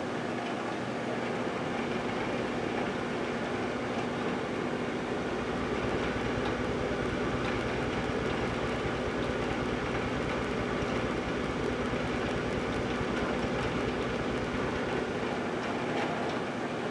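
Microwave oven running with a steady hum, its low rumble deepening about five seconds in, with faint scattered ticks from small arcs off the coins heating inside.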